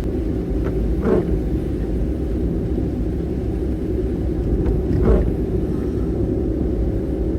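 Steady low rumble of a kei van on the road, heard from inside the cabin, with two short sounds about four seconds apart.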